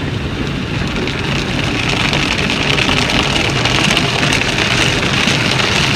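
Automatic car wash working over the car, heard from inside the cabin: a steady rushing of spray and scrubbing on the bodywork over a low machine hum. It grows louder about two seconds in.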